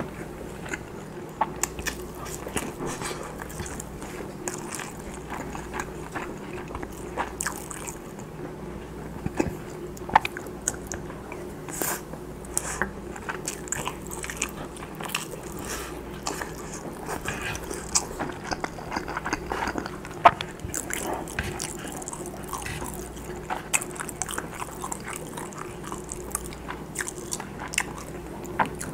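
Close-miked chewing and biting of pan-fried Spam slices and rice: a dense, irregular run of small sharp mouth clicks and smacks.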